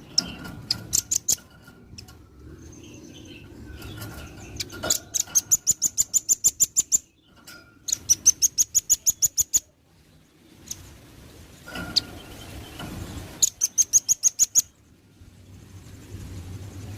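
Velvet-fronted nuthatch (rambatan paruh merah) calling in rapid trains of sharp, high chirps, about seven a second, in four bursts of one to two seconds each with short pauses between.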